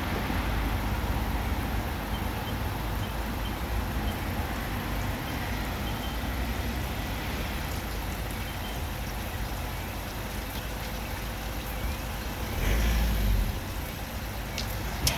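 WashTec SoftCare Pro Classic rollover car wash running mid-cycle: a steady rush of noise over a low rumble, with a louder low surge about thirteen seconds in and a sharp click near the end.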